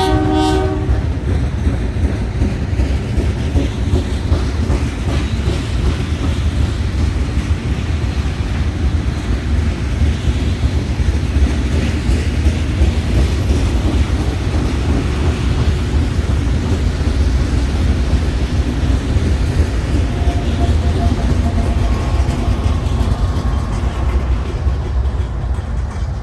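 A train rolling past close by: a loud, steady rumble with the clickety-clack of wheels over rail joints. It goes on without a break.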